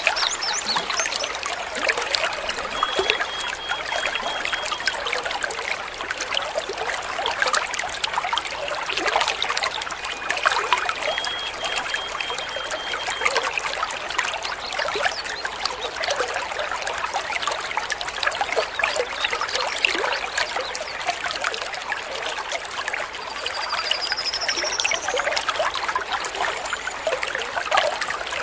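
Trickling, babbling stream water, with faint bird calls over it: two short runs of high repeated notes and, near the end, a single rising whistle.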